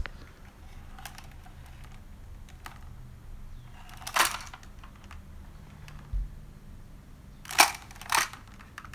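Sharp plastic clicks and knocks from a Kenner Silverhawks Sky Shadow toy being worked by hand, its legs squeezed so the wings fold forward: a few faint clicks, a louder one about four seconds in, a dull thump around six seconds and two loud clicks near the end.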